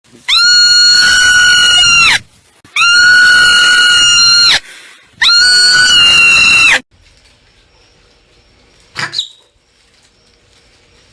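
Marmot screaming: three long, loud calls of steady pitch, each close to two seconds, with short pauses between. A single short, sharp call follows about nine seconds in.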